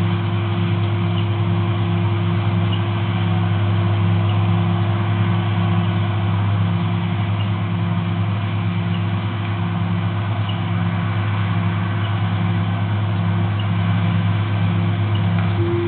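Large farm machine's diesel engine running steadily at a constant speed, with a low, even drone.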